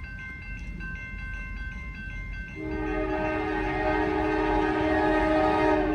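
Diesel locomotive air horn sounding one long blast, a steady multi-note chord that starts about halfway in and is held to the end.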